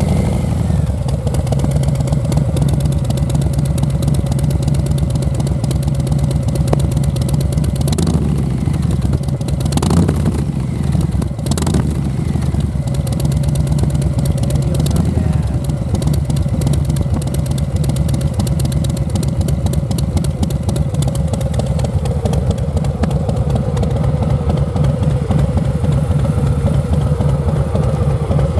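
Harley-Davidson FXBB V-twin idling steadily through Vance & Hines Eliminator 300 slip-on mufflers, just after being started.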